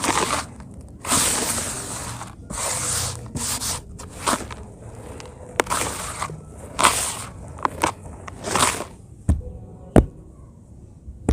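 Dry pure cement being crumbled onto cement paste: a run of gritty crunching bursts, each about half a second to a second long, with two sharp clicks near the end.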